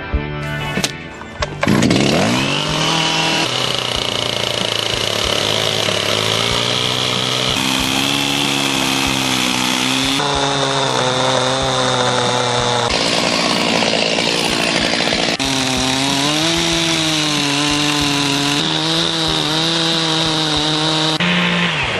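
Chainsaw running under load while cutting lengthwise through a log to mill lumber. It starts about two seconds in, its pitch wavers as it cuts, and its tone jumps abruptly every few seconds.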